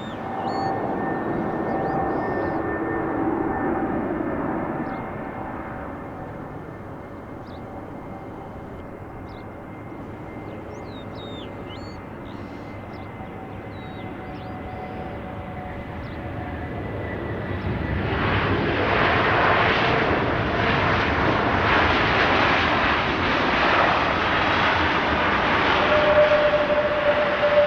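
Airplane engines: steady whining tones over a rumble, then a loud roar that builds about two-thirds of the way in as the aircraft comes close, with a fresh whine near the end.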